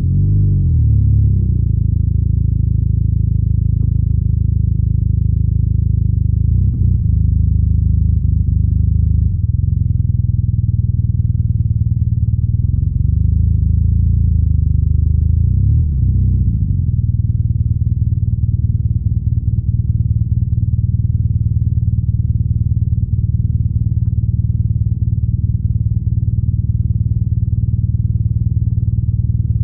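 BMW R nineT's boxer-twin engine and exhaust under way, the revs rising and falling with several gear changes in the first half, then holding a steady drone at cruising speed.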